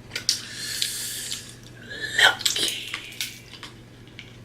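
Wet, messy eating sounds from sauce-covered crab legs: a hissy slurp, then a few sharp clicks of shell and a short squeaky suck about two seconds in.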